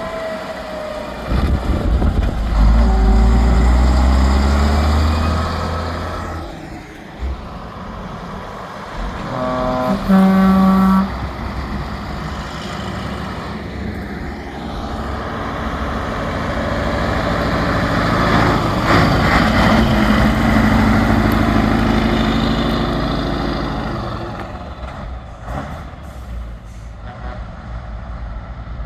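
Heavy trucks driving past one after another, their diesel engines loud as each goes by. About ten seconds in there is a short steady pitched blast, with the hiss of air brakes.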